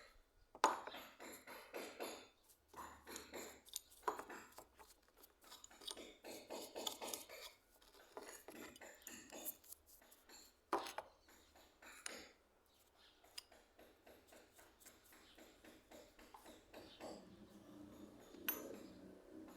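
Metal parts of a hand plane clinking and scraping as it is handled and worked, in irregular bursts with a sharper clink about eleven seconds in. Background music begins to come in near the end.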